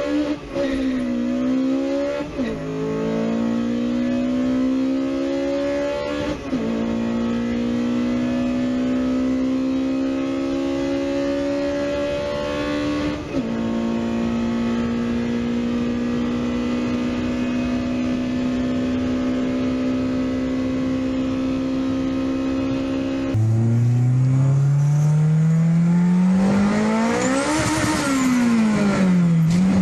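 Honda B-series VTEC four-cylinder engine pulling hard through the gears, its pitch climbing and dropping at each upshift about 2, 6 and 13 seconds in, then holding a steady high note. Near the end another engine revs up to a peak and falls back.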